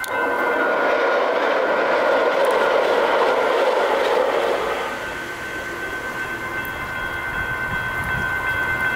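A train passing over a road crossing, its wheel and rail noise loud for the first half and easing off about five seconds in. Over it runs a steady ringing tone from the crossing's warning bell.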